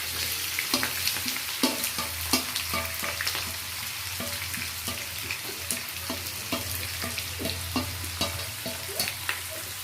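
Sliced onions sizzling in hot oil in a kadai as they are stirred, with frequent short scrapes and clicks of the spoon against the pan. The onions are being fried until they turn brown.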